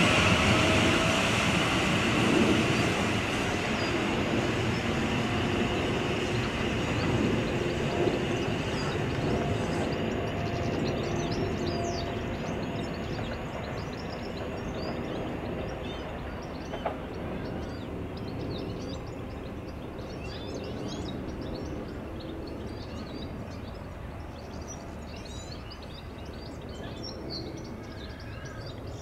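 Electric multiple-unit train moving away along the line, its rumble fading steadily over the whole stretch. Birds chirp more and more clearly as it dies away.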